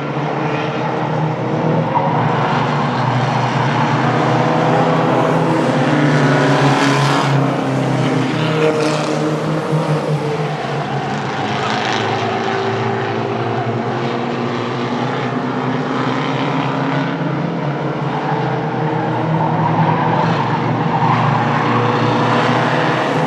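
A pack of Mighty Trucks race trucks running laps on a short oval, several engines at once, their pitch rising and falling as the trucks go by.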